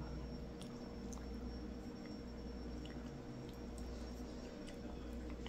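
A person chewing a soft, saucy mouthful of chili and rice, with wet mouth sounds and a few faint clicks of a wooden spoon against the plate, over a steady faint hum in the room.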